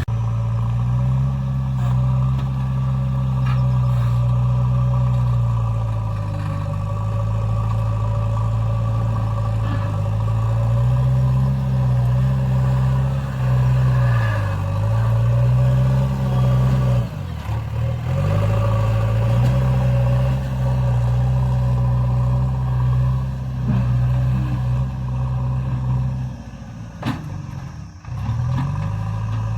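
Heavy diesel machine engine running steadily close by. Its pitch dips briefly and recovers three times: near the middle, a little later, and near the end.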